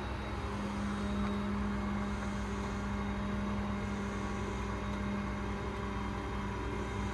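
Engine running steadily, a constant low hum with no change in pitch.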